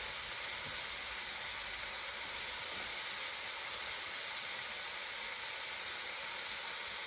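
Diced onion and ginger-garlic paste frying in oil in an aluminium pan: a steady sizzle.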